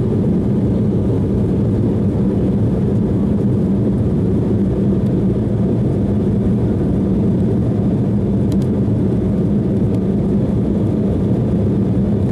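Embraer E190 jet engines heard from inside the passenger cabin at high power after takeoff: a steady, muffled low rumble with a held hum.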